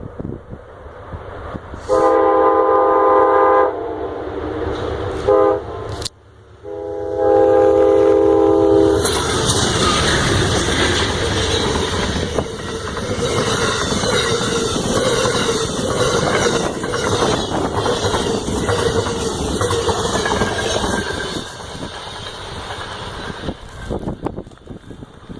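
Amtrak train's multi-chime horn blowing a long blast, a short blast and another long blast. The train then passes close by, with a loud rumble and wheel clatter for about twelve seconds before it eases off.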